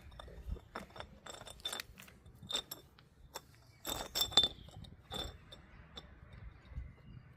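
A cat on catnip playing with a small hard object, making irregular sharp clicks and taps with a slight ring; they bunch up and are loudest about four seconds in.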